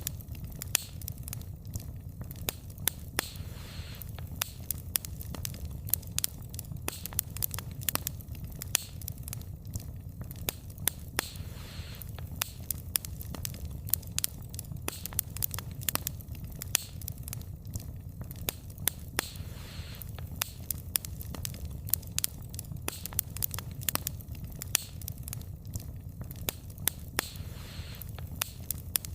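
Wood fire burning, with dense, irregular crackles and pops from the burning wood over a steady low rumble of flame. A soft hiss swells briefly about every eight seconds.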